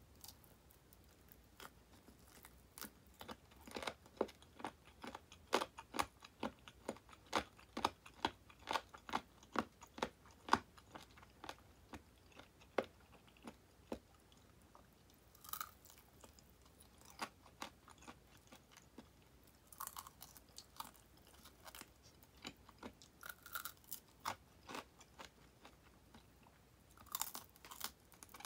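A person chewing crisp deep-fried chicken drumettes ('tulips'), the fried coating crunching between the teeth. There is a dense run of sharp crunches for the first half, then slower, sparser chewing.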